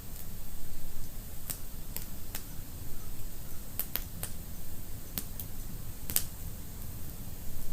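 Wood fire burning in a fireplace: irregular sharp crackles and pops from the logs, the loudest about six seconds in, over a low steady rumble of the flames.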